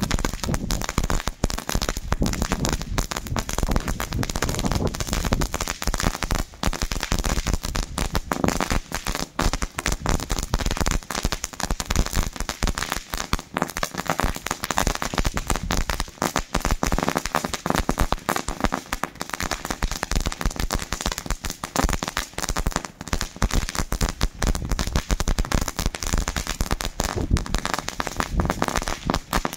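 Funke Knisterfeuer crackling firework burning, giving off a dense, continuous rapid crackle of many tiny pops.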